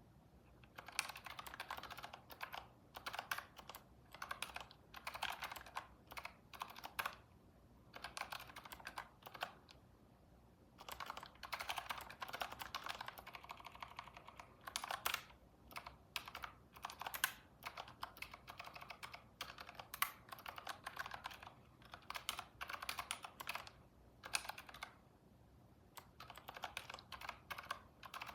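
Computer keyboard typing in quick bursts of keystrokes separated by short pauses.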